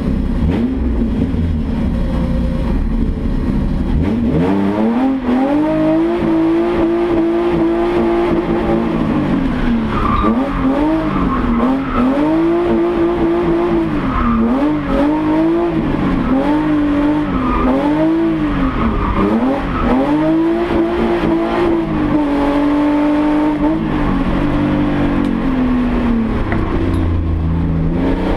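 BMW 320i race car engine heard from inside the cabin, revving hard through a slalom. After a low rumble, the revs climb and hold high, then rise and fall over and over as the driver accelerates and lifts between the cones.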